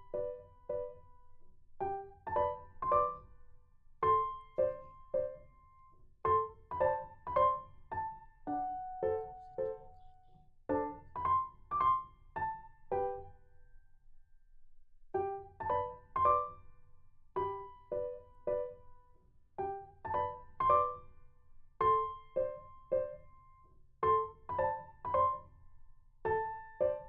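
Background piano music: a gentle melody of struck notes in a steady rhythm, pausing briefly about halfway through.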